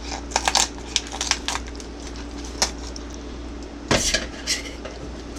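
Kitchen shears cutting through a raw chicken's backbone: irregular sharp clicks and snaps of the blades and bone, loudest about four seconds in, over a steady low hum.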